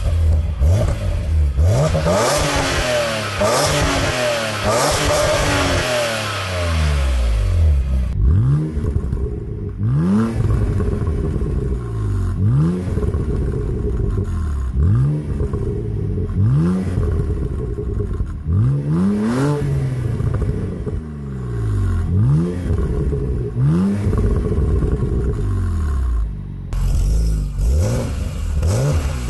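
A BMW Z4's straight-six engine being revved again and again, each rev rising in pitch and dropping back, about every two seconds. The first several seconds are rougher and noisier.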